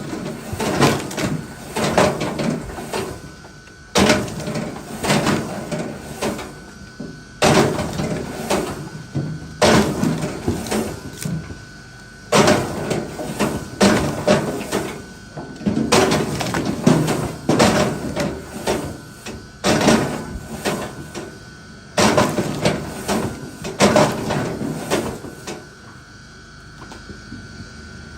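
Firewood being worked: a sharp wooden knock every two to three seconds, each followed by a clatter of wood, stopping near the end.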